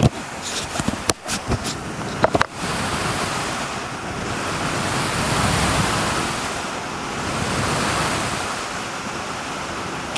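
A few sharp clicks and knocks of handling on the microphone and its windshield parts, then steady rushing wind noise from an electric fan blowing on a Rode NTG2 shotgun microphone, swelling twice.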